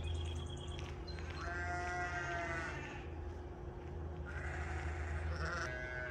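Two drawn-out, fairly level-pitched calls from a farm animal, the first about a second and a half in lasting about a second, the second starting near the end, over a steady low hum.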